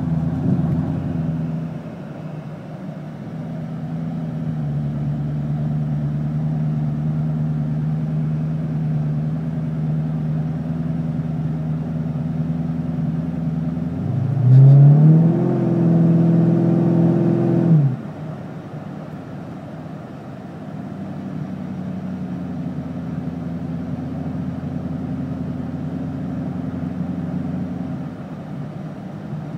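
Supercharged 5.7-litre Hemi V8 of a 2006 Dodge Charger police package, breathing through an SLP Loudmouth II cat-back exhaust and heard from inside the cabin, droning steadily at low revs while cruising. About halfway through, the pitch rises quickly and the exhaust gets louder for a few seconds on the throttle, then drops suddenly back to a quieter cruising drone.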